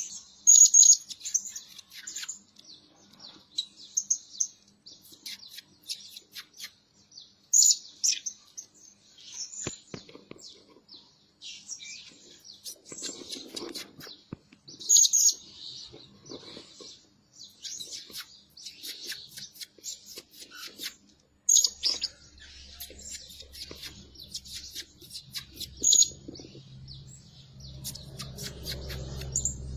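Blue-crowned hanging parrot calling: a run of short, high-pitched chirps and twitters, broken every few seconds by a louder, sharp call. A low steady hum comes in during the last third.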